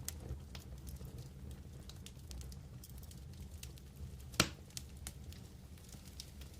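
Wood campfire crackling, with scattered small snaps and one sharp, loud pop about four seconds in, over a steady low rumble.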